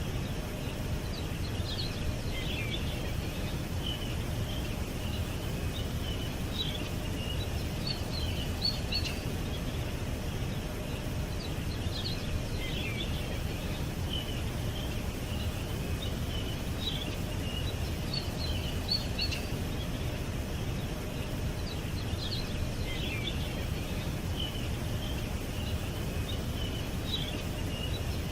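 Small birds chirping and trilling in scattered short high phrases, over a steady low background rumble.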